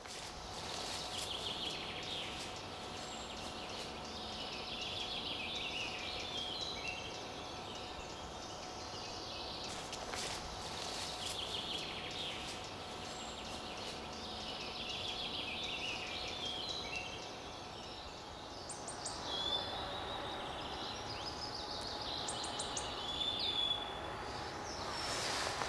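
Outdoor ambience with small birds chirping and twittering in short bursts every few seconds, over a steady background hiss.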